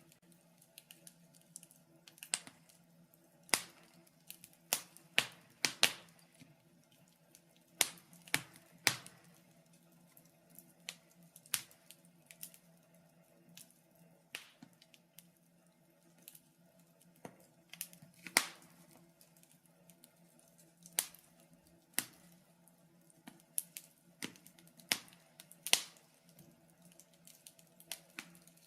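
Wood fire crackling in a fireplace: irregular sharp pops and snaps, a few loud and many faint, over a faint steady hum.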